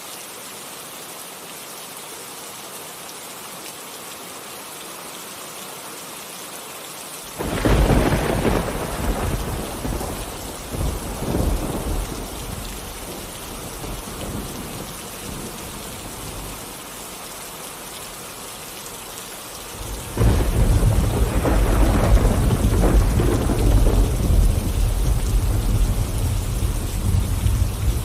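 Steady rain falling, with two thunderclaps: one breaks suddenly a quarter of the way in and rolls away over several seconds, and another starts about two-thirds of the way in and keeps rumbling.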